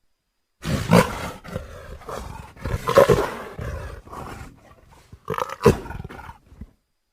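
Leopard sound effect: a run of rough growling roars starting about half a second in, with loud peaks about a second in, around three seconds and near the end, then breaking off.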